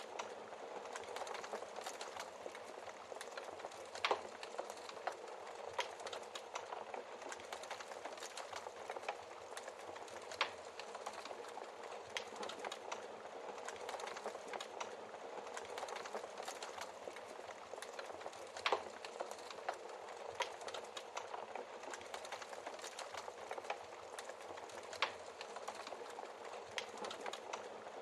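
Log fire crackling steadily in a fireplace, with a few louder sharp pops from the burning logs.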